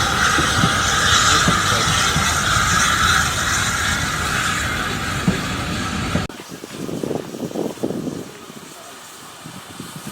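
Train running on the rails with a steady, loud rushing noise and rumble, cut off abruptly about six seconds in; faint voices follow.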